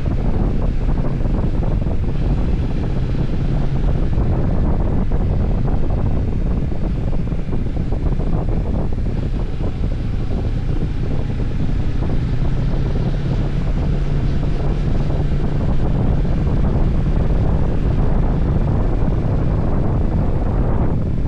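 Wind rushing over the microphone on a moving motorcycle, with the engine's steady drone underneath.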